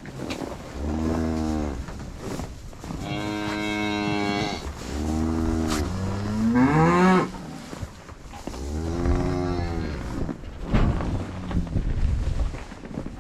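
Cattle mooing: about five low moos one after another, one near the middle rising in pitch and louder than the rest.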